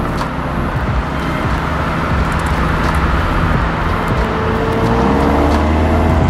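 Genesis G70 Shooting Brake engine pulling hard under acceleration with road noise, its note rising steadily in pitch over the last two seconds.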